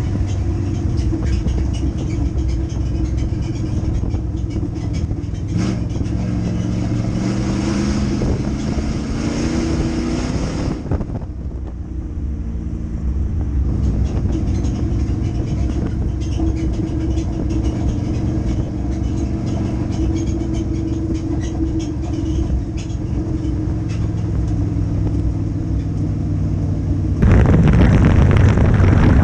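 Dirt-track race car engine running hard on track, climbing in pitch a few seconds in, easing off briefly around eleven seconds, then pulling steadily again. A louder rush of noise comes in near the end.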